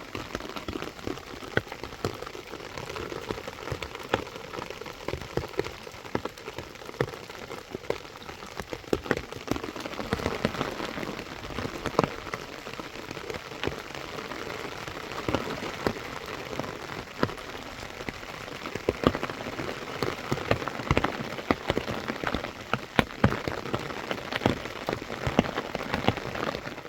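Steady heavy rain falling, with a dense spread of sharp individual drop impacts.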